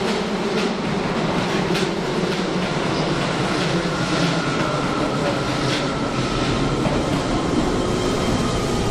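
Keio 7000 series electric train running along the track, its wheels clicking over rail joints. A faint steady whine joins in from about four seconds in.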